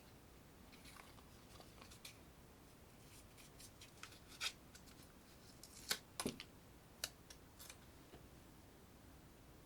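Faint handling noises with a few short, sharp clicks, the loudest about halfway through.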